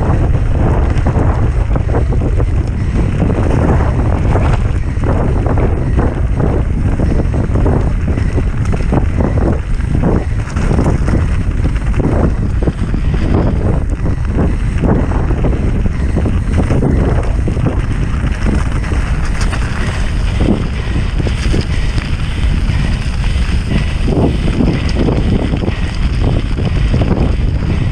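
Heavy wind buffeting on a bike-mounted camera's microphone during a fast mountain-bike descent, a steady low rumble, with frequent knocks and rattles from the bike jolting over rough ground.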